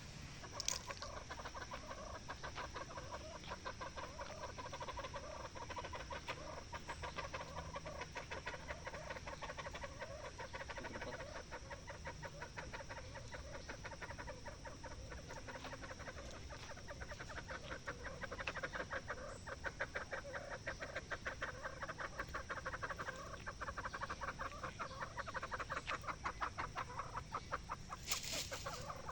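A continuous chorus of rapid clucking animal calls, heard as a fast pulsing chatter.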